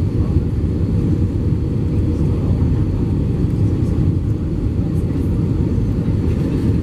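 Steady low rumble of an Airbus A320-232 airliner, its IAE V2500 engines and airflow heard from inside the passenger cabin, with a faint steady hum over it.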